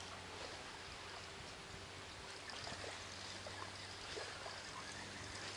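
Faint steady rush of flowing river water, with a few light ticks.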